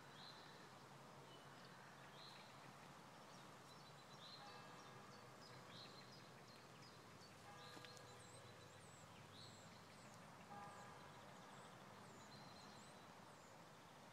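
Faint birds chirping outdoors, a short call repeated about every second with a few other calls between, over a low steady background hum.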